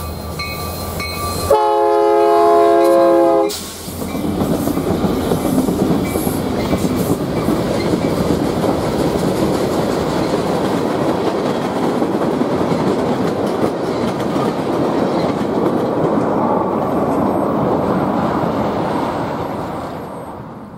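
Union Pacific freight train passing close by. The locomotive horn sounds a loud blast that ends about three and a half seconds in, then the locomotives and tank cars roll past in a steady noise of wheels on rail, fading near the end.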